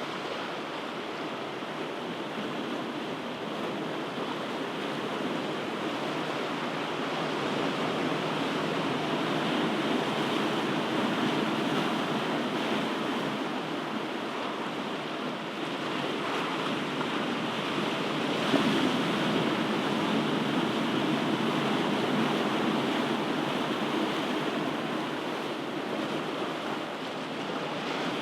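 Ocean waves washing onto a shore in a continuous rushing wash that swells and eases slowly every several seconds. There is one brief sharper splash about two-thirds of the way through.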